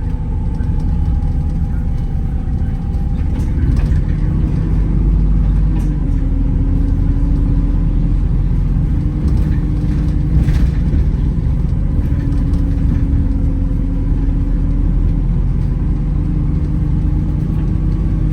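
Wright Gemini 2 hybrid double-decker bus driving, heard from inside: steady drivetrain hum over a loud low road rumble, with a higher whine that falls slightly in the first few seconds.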